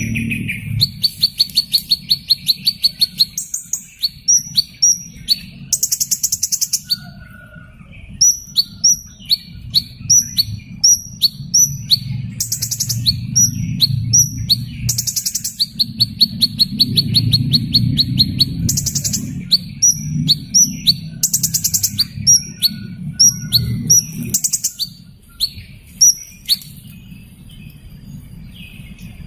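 Small bird singing: sharp, high, falling chirps repeated about twice a second, broken by several rapid buzzy trills lasting a second or two each. Over a low background rumble.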